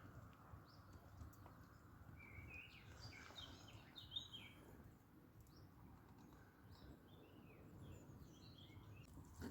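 Faint birdsong: a run of short chirps and warbled notes over low background noise.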